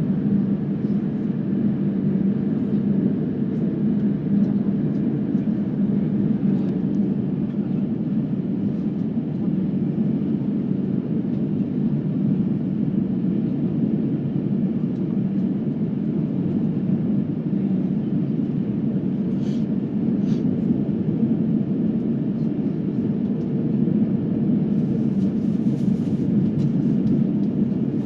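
Steady drone of a jet airliner's engines and airflow heard inside the cabin, with a low hum running through it. Two faint clicks come about two-thirds of the way through.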